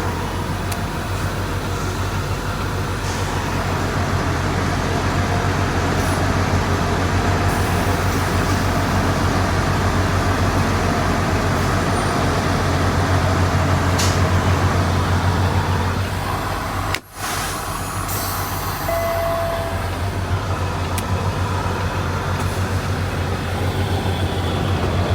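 Semi truck's diesel engine idling steadily, a constant low hum under a steady hiss, with a brief break about two-thirds of the way through.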